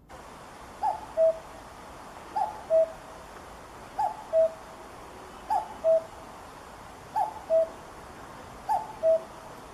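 Common cuckoo calling its two-note "cuck-oo" six times, each call a higher note dropping to a lower one, about one and a half seconds apart, over a faint steady hiss.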